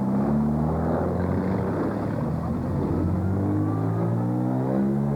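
Classic car engine under load on a steep uphill climb, accelerating with its note rising steadily in pitch through the second half.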